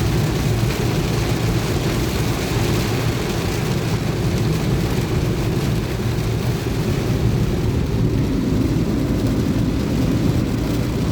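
Heavy rain drumming on a moving car, heard from inside the cabin, over a steady rumble of road and engine noise.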